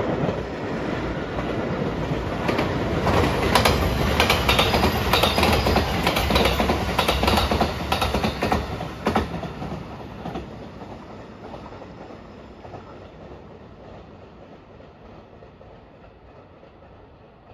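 Marine Liner rapid electric train passing close by, wheels clicking sharply over rail joints as the cars go past. The sound then fades steadily as the train moves away.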